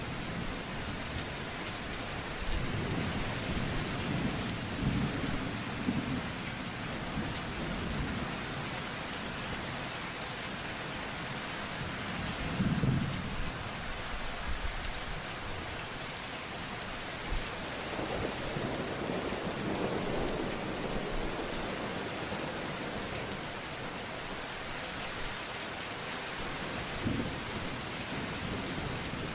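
Steady heavy rain falling, with low rumbles of thunder swelling up several times.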